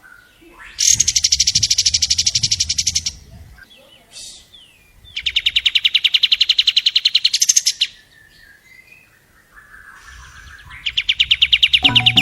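Long-tailed shrike (cendet) singing in long, rapid trills: three bouts of fast, evenly repeated high notes, each lasting two to three seconds, with pauses between and the last starting near the end.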